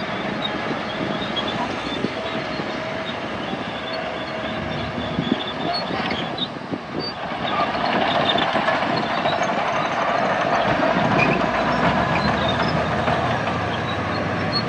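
Heavy diesel earthmoving machinery at work: a bulldozer's engine running with a rattling clank, getting louder about halfway through.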